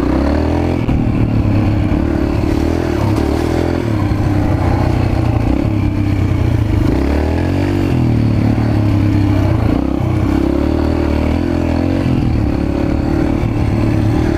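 Small dirt bike engine running hard as it is ridden over rough trail, the revs rising and falling with the throttle and dipping then climbing again about seven seconds in, with some rattle from the bike.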